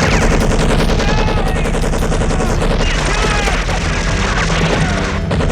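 Sustained rapid automatic gunfire, shot after shot without a break, with men yelling over it.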